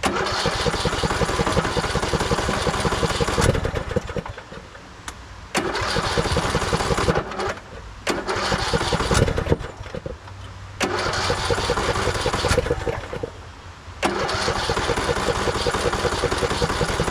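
Lawn tractor engine being cranked by its electric starter in about five tries of two to three seconds each, with short pauses between: a hard start after weeks of sitting.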